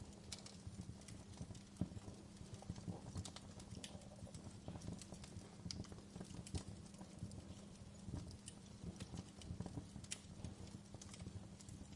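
Wood fire in a fireplace crackling: irregular snaps and pops, some sharper than others, over a low steady hum.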